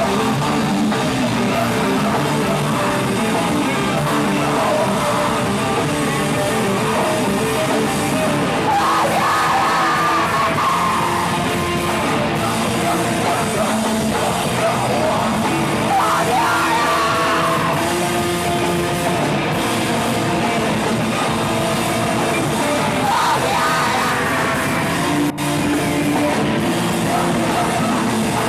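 Live heavy rock band playing loud, distorted music with yelled vocals over it.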